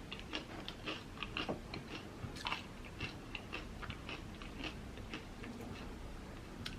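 A person chewing food close to the microphone, with a steady run of small irregular wet clicks and light crunches.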